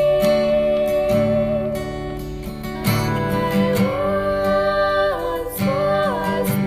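A woman singing a long held note, then a gliding melodic phrase, over acoustic guitar accompaniment.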